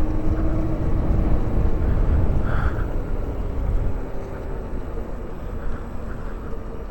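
Zero SR/F electric motorcycle on the move: a heavy rumble of wind on the microphone and road noise, with a faint steady motor whine at first. It grows quieter about four seconds in.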